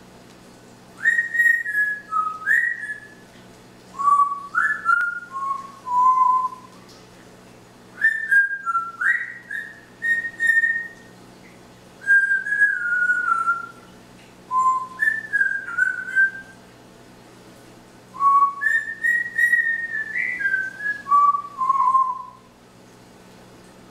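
Pet parrot whistling in short phrases of clear notes, some sliding down in pitch, repeated with brief pauses between them.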